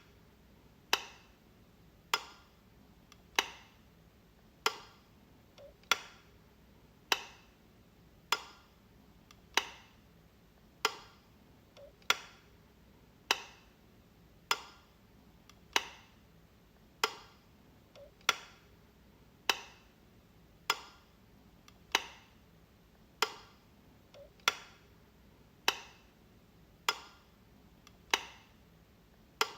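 Light switch being flicked, one sharp click about every 1.2 seconds in an even rhythm, some with a fainter click just before.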